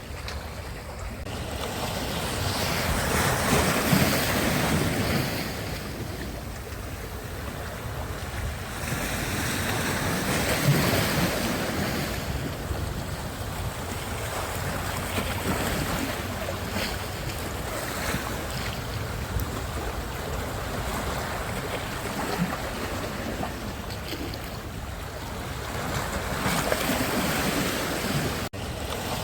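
Sea surf: waves breaking and washing in, swelling and easing every several seconds, with wind rumbling on the microphone.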